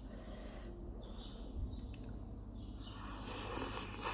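A bird chirping with short falling chirps, about one a second. About three seconds in, a person slurps up noodles, the loudest sound here.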